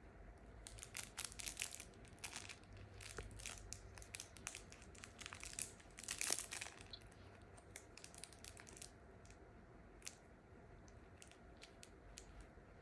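A puppy chewing and tugging at a rabbit toy: faint crackling, crinkling and clicking, busy for most of the first nine seconds, then only a few scattered clicks.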